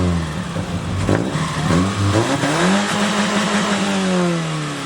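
Car engine being revved: its pitch swings up and down in short blips, with a sharp crack about a second in. It then climbs to a held high rev for about a second and falls back as the throttle is released.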